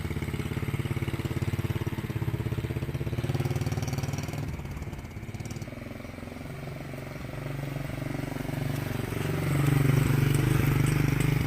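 Small motorcycle engine mounted on a folding bicycle, running with a fast, even pulsing beat. It eases off about five seconds in, then picks up again and runs louder near the end.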